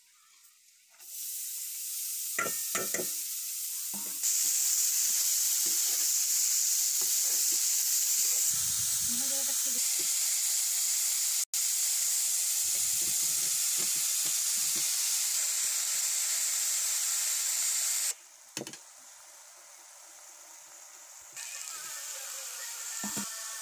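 Whole spice seeds frying in hot oil in an iron karahi: a steady sizzling hiss, with a steel spatula scraping and knocking against the pan as they are stirred. The sizzle cuts off sharply about two-thirds of the way in and comes back more softly near the end.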